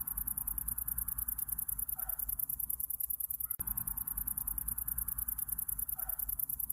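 Summer-night chorus of crickets: a high-pitched, fast, even pulsing trill over a soft hiss and low rumble. It is a short loop that cuts and restarts about every four seconds.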